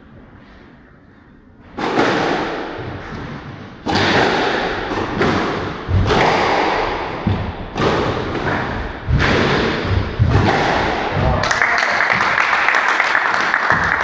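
A squash rally: the ball struck by rackets and slamming off the court walls, sharp echoing thuds about every second or so, starting about two seconds in. Near the end spectators break into applause as the rally ends.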